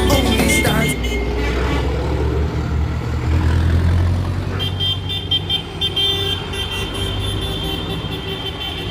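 Tractor engines running with a low rumble, loudest a few seconds in as they go by. A steady high tone joins about halfway through.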